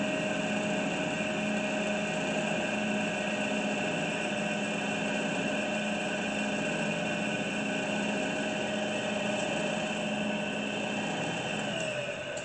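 Grizzly G0592 horizontal bandsaw's 2-horsepower motor and blade drive running bladeless with a steady whine. Near the end the head reaches the bottom limit switch, the saw shuts itself off and the whine falls in pitch as it spins down.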